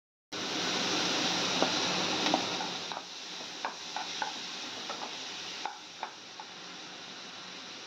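Chopped onions and tomatoes sizzling in oil in a nonstick kadai, stirred with a wooden spatula that knocks against the pan now and then. The sizzle starts abruptly just after the start and eases to a softer hiss after about three seconds.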